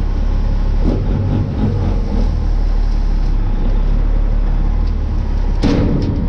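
Tri-axle dump truck's diesel engine running steadily while the load is tipped with the body raised, heard from the cab. A short burst of air hiss comes near the end.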